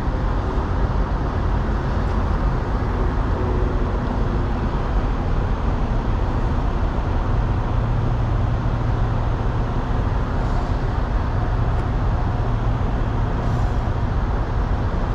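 Heavy diesel truck engine idling steadily, a low hum that grows stronger about halfway through.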